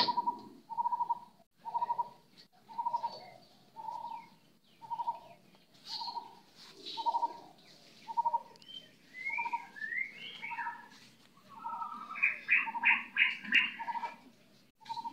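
Bird calling: a short note repeated about once a second, with quick chirps from birds about two-thirds of the way in and a fast run of notes near the end.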